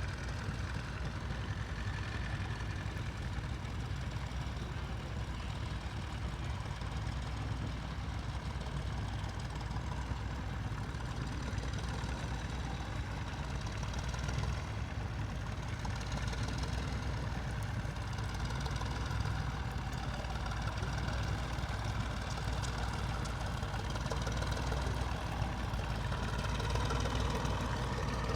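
Tractor engine running steadily, growing a little louder toward the end.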